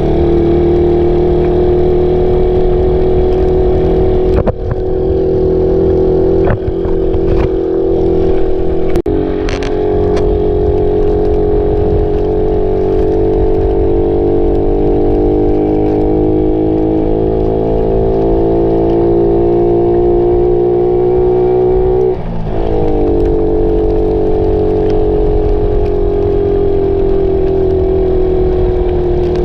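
Suzuki Raider 150 motorcycle engine running under way at a steady cruise. Its pitch climbs slowly, dips and recovers sharply about three-quarters of the way through like a quick gear change, then eases off. A few sharp clicks come in the first third.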